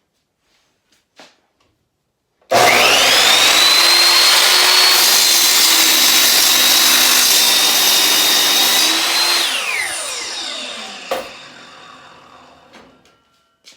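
Ryobi electric miter saw switched on about two seconds in: its motor's whine rises quickly and holds steady for about seven seconds, then the saw is released and spins down with a falling whine. A single sharp knock comes as it winds down.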